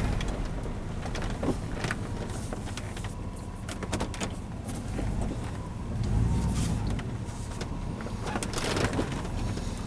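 Chevrolet Tahoe being driven, heard from inside the cabin: a steady low engine and road rumble with scattered short clicks and rattles.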